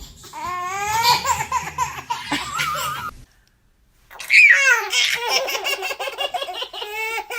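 A baby laughing in two long bouts of rapid, pitched giggles, with a short break of about a second between them.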